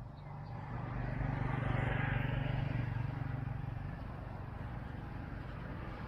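A motor vehicle passing by: a low engine hum that swells over the first two seconds and eases off again after about four.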